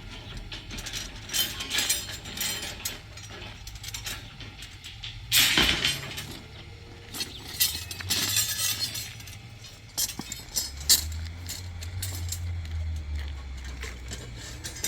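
Scattered clinks and knocks of hard objects being handled, with a louder crash about five seconds in.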